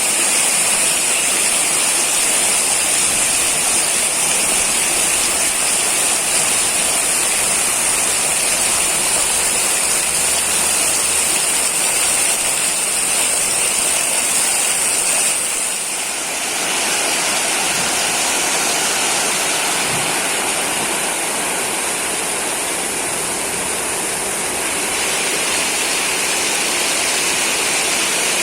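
Heavy rain pouring down, a dense steady hiss that eases slightly and shifts in texture about halfway through.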